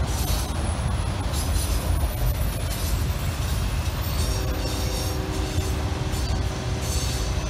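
Autorack freight cars rolling over a railroad bridge: a steady low rumble of wheels on rail, with irregular clanks and, from about halfway, some wheel squeal.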